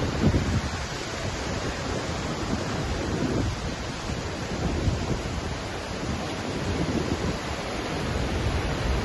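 Waterfall in Iceland: a steady rush of falling water, deep and full, swelling slightly now and then, with some wind buffeting on the microphone.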